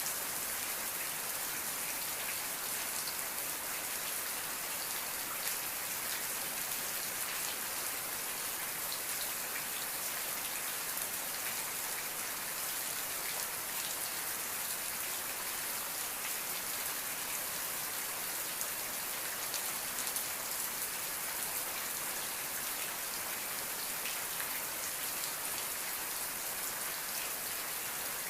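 Steady rain falling, a dense even hiss of drops with fine ticks of individual drops hitting a surface.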